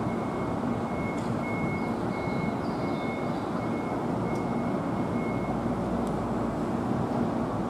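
Keihan electric train moving at the station platform with a steady rumble. A high electronic beep repeats in short pulses over it and stops about five and a half seconds in.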